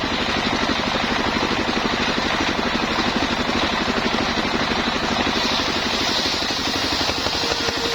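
Engine of a homemade sawmill running steadily with a fast, even firing pulse.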